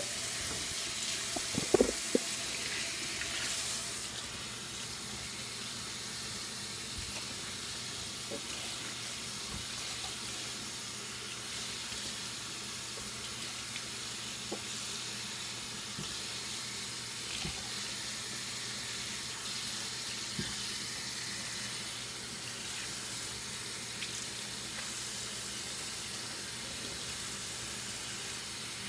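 Water from a tap running steadily as shampoo is rinsed out of hair, with a few sharp knocks about two seconds in.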